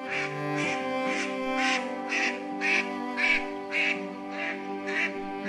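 Swan calling in a steady series of short honks, about two a second, over background music with sustained string tones.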